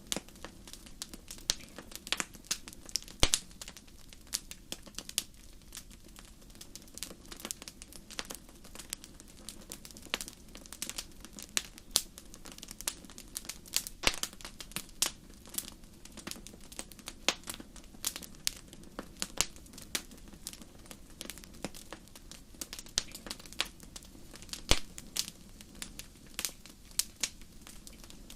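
Wood fire crackling in a fireplace: irregular sharp pops and snaps, several a second, over a soft steady background.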